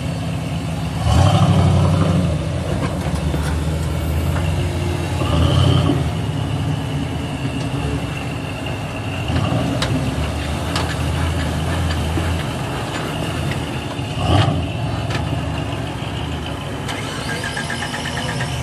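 Off-road 4x4's engine running at low revs, with short bursts of throttle about a second in, near six seconds and near fourteen seconds. A few sharp knocks come around the middle.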